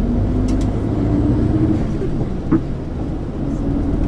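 MAN ÜL 353 bus's diesel engine pulling under way, a steady low drone whose pitch climbs slightly in the first second and then holds, with road and cabin noise. One short knock or rattle about two and a half seconds in.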